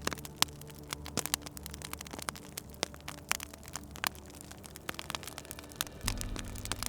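Fireplace wood fire crackling, with irregular sharp pops and snaps over a low steady hum that shifts in pitch about six seconds in.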